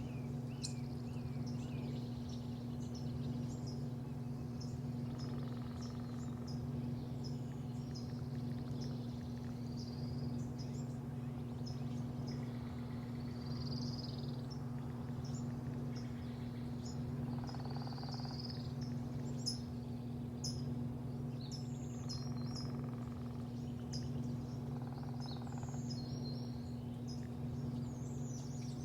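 Small birds chirping over and over in short high notes, over a steady low machine hum.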